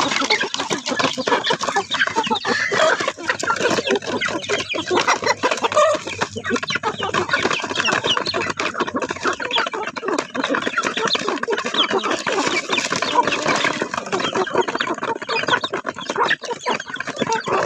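Chickens clucking and calling without a break, many short calls overlapping.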